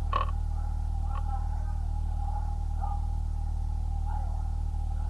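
Steady low hum under a steady mid-pitched tone, with a few faint, brief snatches of a voice.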